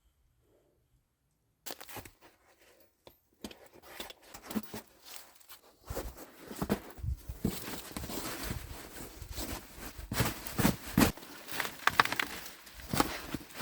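Irregular rustling and crackling with sharp snaps and knocks, as of dry branches and brush being handled, busier and louder from about six seconds in. The first second and a half is silent.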